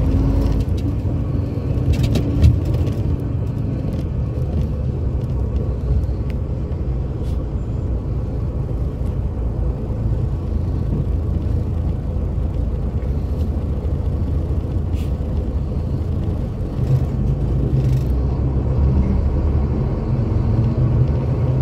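Scania K82SR coach engine running with a steady low rumble, with scattered light clicks and rattles, swelling slightly about three-quarters of the way through.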